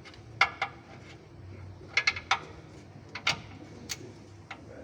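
Wrench clicking as the front stabilizer bar bracket bolt is torqued: about nine sharp, irregular metallic clicks, some in quick pairs and threes.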